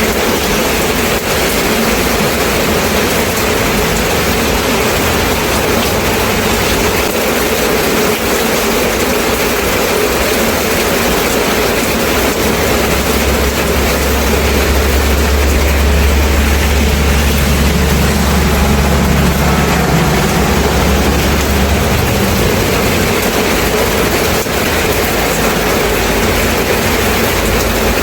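Steady, loud rain falling. Partway through, a low rumble swells under the rain for about ten seconds, then fades.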